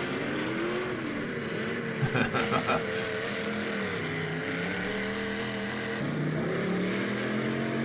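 Demolition derby cars' engines revving up and down over a steady background din, with a few short knocks about two seconds in.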